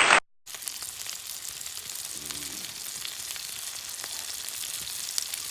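Food sizzling as it cooks over a campfire: a steady frying hiss with small faint crackles, starting after a brief dropout near the start.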